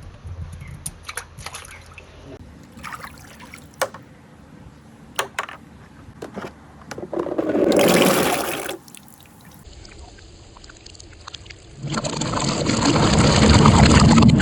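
Water rushing through a handmade water marble run in two loud surges of about two seconds each, with a few sharp clicks before them.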